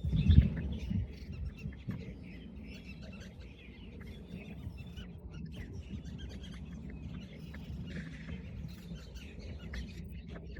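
Small birds chirping and calling over a steady low rumble, with a loud low thump in the first second.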